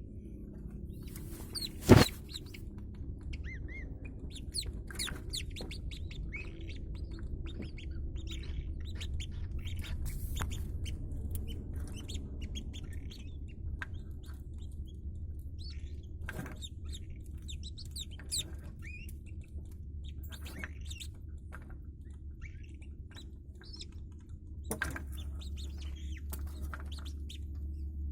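Whistling duck chicks hatching and peeping in many short, high chirps, some rising in pitch, scattered throughout over a steady low hum. A single sharp click about two seconds in.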